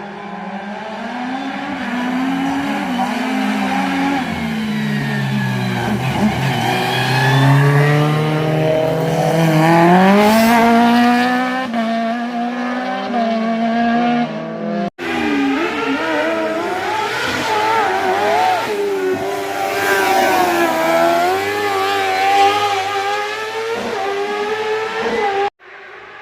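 Competition car engines revving hard in a slalom, the pitch climbing and falling repeatedly as the drivers accelerate, lift and shift through the chicanes. An abrupt cut about fifteen seconds in switches to another pass.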